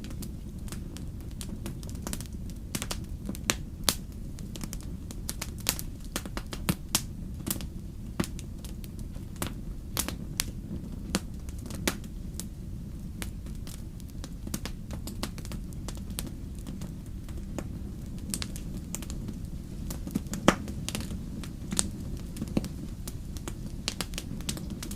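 Wood fire crackling: irregular sharp pops and snaps over a steady low rumble of flames, with a louder pop about twenty seconds in.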